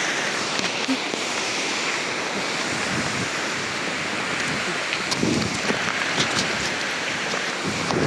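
Strong storm wind blowing steadily, a continuous rushing noise with a few sharp ticks in the second half.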